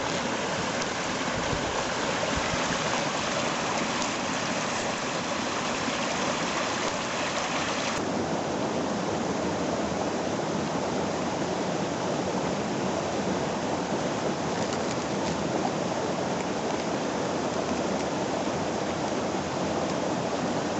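A river rushing steadily, a constant hiss of flowing water; about eight seconds in the brighter, higher part of the rush drops away abruptly and it carries on a little duller.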